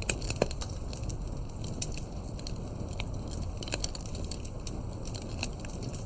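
Campfire burning, crackling with irregular sharp pops and snaps over a low steady rumble; the loudest pops come just after the start and about half a second in.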